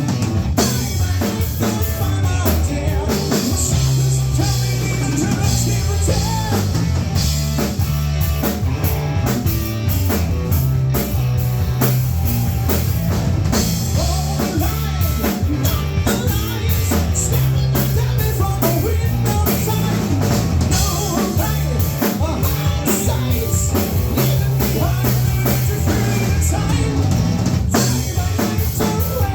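Live rock band playing with drum kit, bass and electric guitar.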